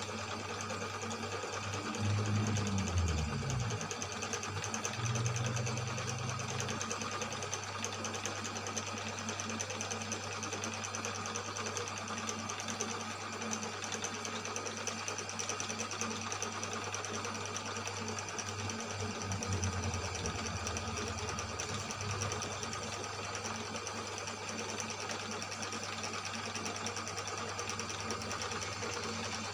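Cylinder boring machine running steadily as it cuts the bore of a Yamaha Mio M3 cylinder block, a continuous motor hum. The pitch drops briefly about two to three seconds in.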